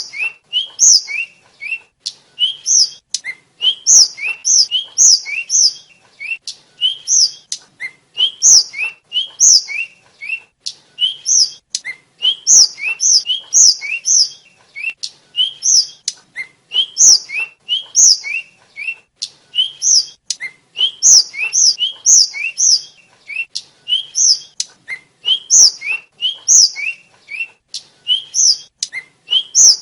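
Sikatan flycatcher (tledekan/sulingan) singing without pause: quick runs of short, rising chirps paired with higher, sharper notes, repeated over and over.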